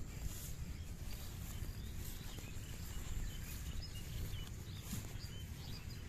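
Birds chirping now and then, short high calls, over a steady low rumble of outdoor background noise.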